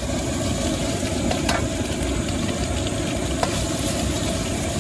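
Gas wok burner running at full flame, a steady loud rush that starts abruptly, with a few light metal clicks from the wok.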